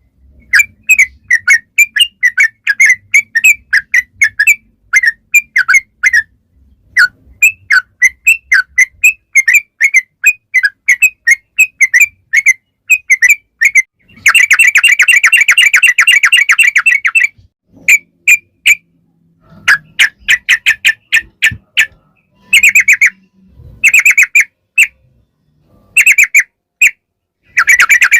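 Yellow-vented bulbul (trucukan) singing: a run of short, clear chirped notes at about three a second, then a fast rolling trill (the 'ropel') about halfway. After that come short bursts of trilling, and a long unbroken trill near the end.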